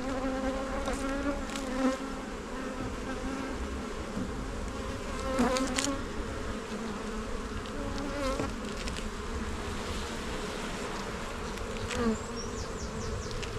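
Honey bees buzzing around an opened hive: a steady hum of many wings, with single bees now and then flying close past, their pitch bending as they go by.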